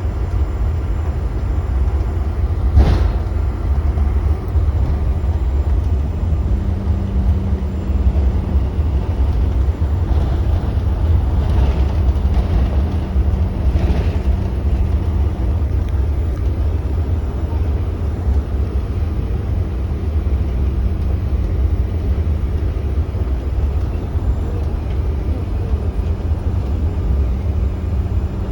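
Cabin noise of a CRJ-900 taxiing: a steady low rumble from its rear-mounted GE CF34 turbofans at taxi power and the airliner rolling along the taxiway, with a single sharp knock about three seconds in and a few fainter ones later.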